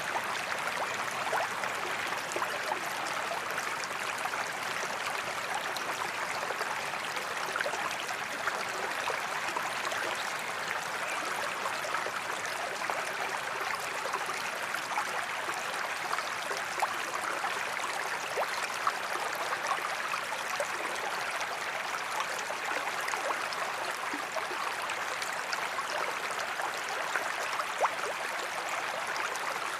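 Waterfall water pouring and splashing steadily: an even rush with small, brief splashes scattered through it.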